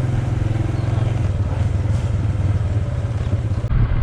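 Honda Super Cub's single-cylinder four-stroke engine running steadily while riding, with road noise.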